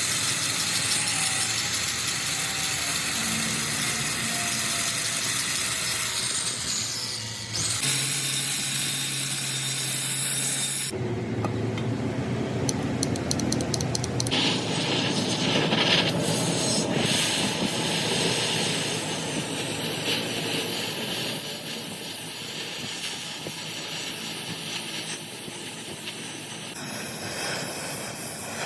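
Metalworking noise from work on a cracked truck flywheel: a steady, noisy hiss that changes abruptly several times, about 8, 11 and 14 seconds in.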